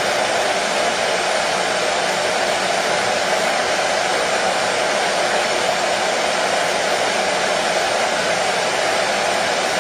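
Hair dryer running steadily, a constant even whoosh of blowing air with a low hum beneath it, used as white noise to soothe a baby to sleep.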